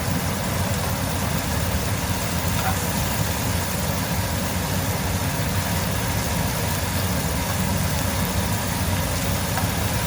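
Chicken strips and sliced garlic sizzling steadily in hot olive oil in frying pans over high heat, over a steady low rumble.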